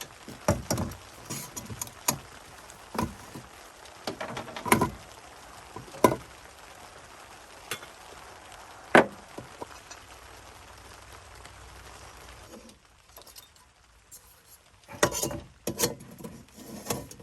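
Irregular clinks and knocks of camp gear being handled over a steady hiss of rain. The rain hiss drops out a little after halfway, and a last cluster of clatter comes near the end.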